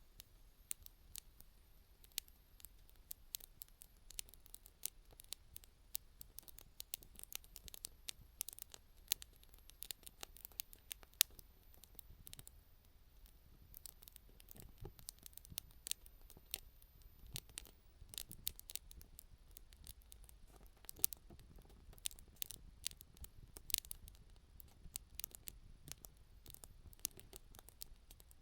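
Newly lit campfire of small kindling crackling: dense, irregular sharp pops and snaps at an uneven pace, some louder than others.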